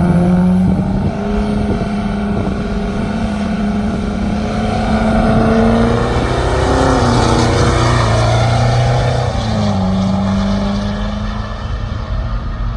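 Truck engine running, its pitch stepping up just after the start, dropping about midway and climbing again around ten seconds in.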